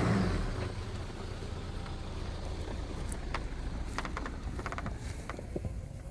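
A vehicle driving slowly along a dirt road: a steady low engine and road rumble with scattered clicks and knocks, heaviest over the middle of the stretch.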